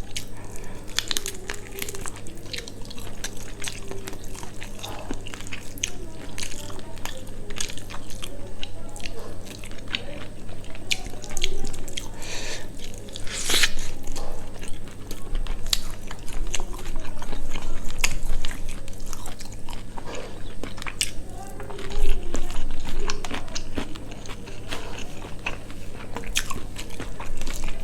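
Close-up eating sounds: a person chewing and biting into quail meat and rice, with many short wet clicks and crunches throughout. A steady low hum lies underneath.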